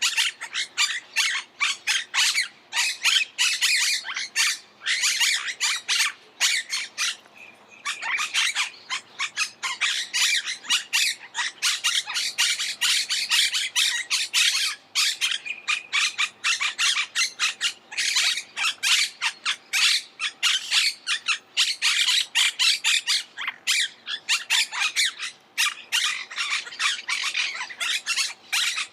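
Monk parakeets squawking in a dense, harsh chatter of rapid, overlapping calls, with a brief lull at around seven seconds.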